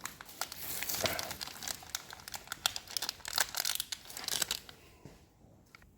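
Crinkling rustle with many small, sharp clicks and taps of hands handling parts and tools, dying away about four and a half seconds in.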